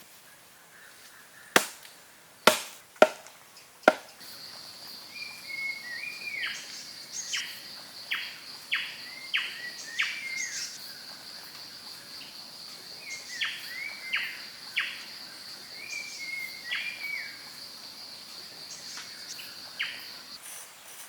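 Four sharp knocks in quick succession, followed by repeated short bird chirps over a steady high-pitched insect buzz that stops shortly before the end.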